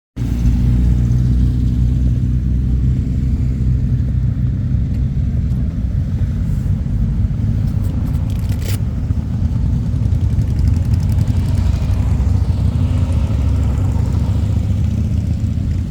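Motorcycle engines idling, a steady low rumble, with a brief click about nine seconds in.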